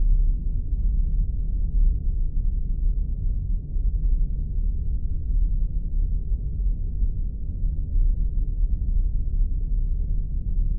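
Spaceship sound effect: a steady, deep rumbling hum with nothing in the higher range.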